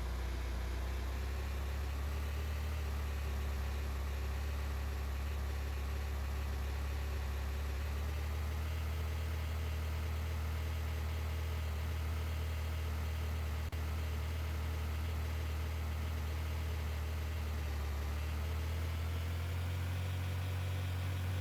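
Car engine running steadily, a low, even hum that shifts slightly in pitch near the end.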